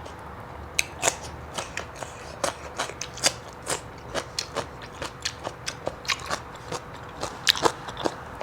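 Close-miked chewing of crunchy food, a quick irregular run of crisp crunches at about two or three a second.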